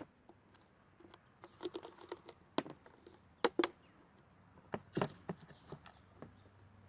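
Irregular light clicks and taps of seashells being handled and pressed onto a bottle while they are glued on with a hot glue gun, a few sharper knocks about three and a half seconds and five seconds in.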